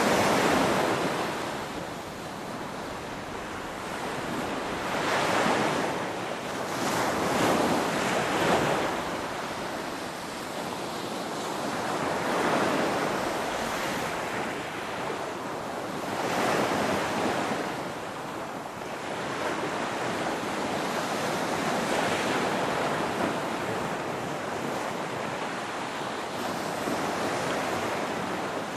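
Ocean waves breaking and washing on the shore, a steady surf wash that swells and ebbs every few seconds, with the loudest swell right at the start.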